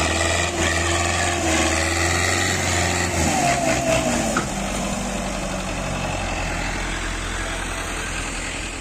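Tractor engine running steadily, with a deep low hum that changes a little over three seconds in and a slightly quieter engine note after that.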